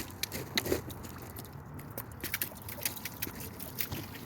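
Irregular crisp clicks and crackles, several each second.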